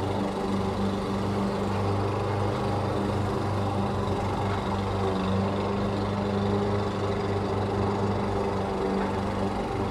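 Lawn mower engine running steadily at a constant speed, a continuous hum with no pauses.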